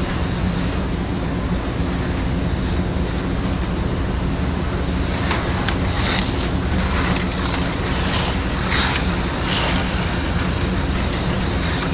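HO scale slot cars running on plastic track: a steady electric motor hum and whir, with a run of short clicks and rattles from about five seconds in.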